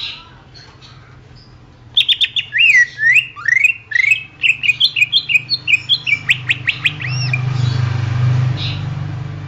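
Greater green leafbird (cucak ijo) singing a fast, loud phrase of sharp chips mixed with swooping whistles, starting about two seconds in and lasting some five seconds. A steady hiss with a low hum follows the song.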